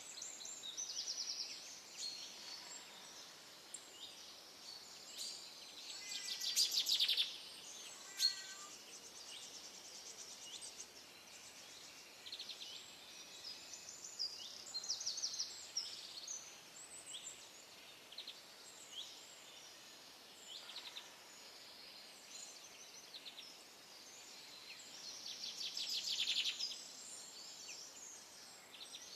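Several small birds chirping and singing, high short calls scattered throughout, with two louder rapid trills, one about a quarter of the way in and one near the end, over a faint steady background hiss.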